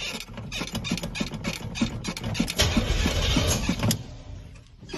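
Truck engine cranking on the starter without firing, churning at about four strokes a second. It gets louder for about a second in the middle, and the cranking stops shortly before the end.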